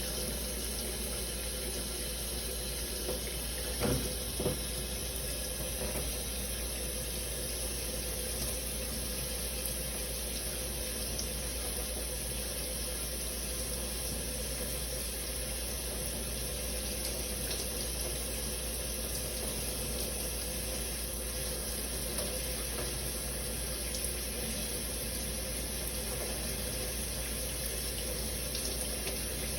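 Shower running steadily, water spraying and splashing, with a couple of brief knocks about four seconds in.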